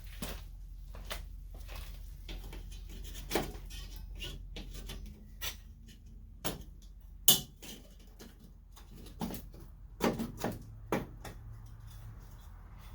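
Someone rummaging among tools and small parts: scattered clicks, knocks and light clatter, the loudest knock about seven seconds in and several more near the end, over a steady low hum.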